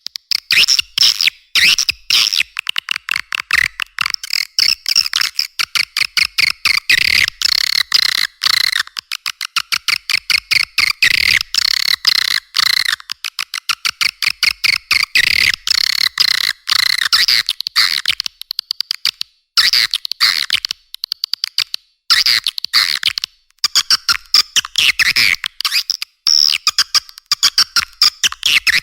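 Swiftlet lure call track: dense, rapid chattering clicks and chirps of swiftlets, packed almost without pause, with the low end cut away so that it sounds thin and high.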